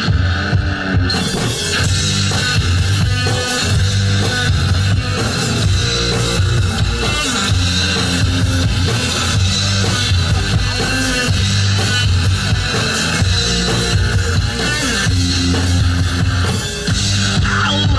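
One-man band playing a rock instrumental live: a drum kit worked by foot pedals, with bass and guitar lines over a steady beat.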